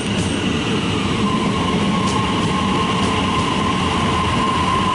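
Melbourne High Capacity Metro Train, an electric commuter train, arriving alongside at close range: a steady loud rumble of wheels and carriages. A steady whine joins about a second in and holds.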